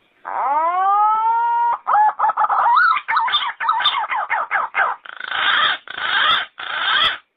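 Yellow-footed green pigeon calling: one long whistled note that rises and levels off, then a quick run of warbling up-and-down notes, ending in three harsh rasping bursts.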